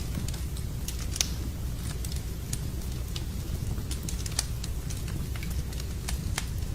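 Wood campfire crackling: irregular sharp pops and snaps from the burning wood, a few louder than the rest, over a steady low rumble.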